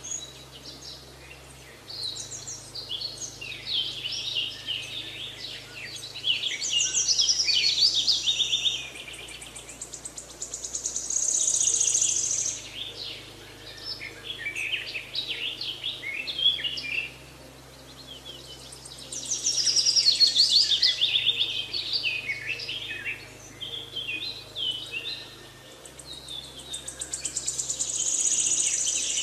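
Songbirds chirping and singing, many quick chirps and trills that come in busy spells every several seconds. Under them is a faint low hum that shifts in pitch every few seconds.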